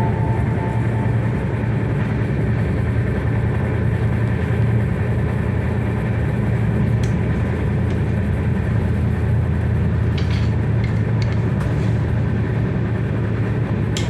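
Steady rumble of a moving train heard from inside the carriage, with a few faint clicks about ten seconds in.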